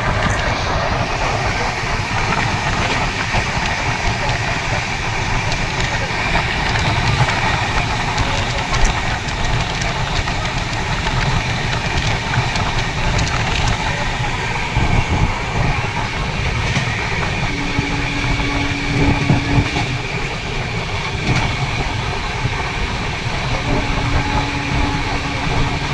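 Express passenger train running at speed, heard from an open coach doorway: a steady rumble and rush with scattered clicks of wheels over the rails. A short, steady low tone comes in twice, a few seconds apart, near the end.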